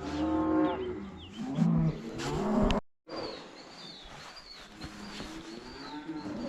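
Cattle mooing, several overlapping low calls in the first few seconds. The calls break off abruptly about three seconds in, then fainter lowing carries on.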